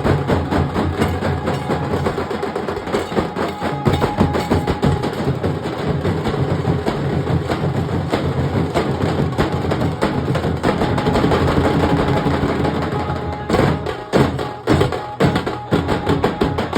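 Nasik dhol troupe drumming: a dense, fast rhythm on the big barrel drums that breaks into sparser, separate strokes about three-quarters of the way through.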